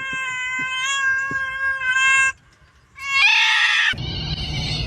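A cat giving one long, drawn-out meow that holds a steady pitch for over two seconds. After a short pause it gives a louder, shorter, harsher meow. A steady low rumble of background noise starts near the end.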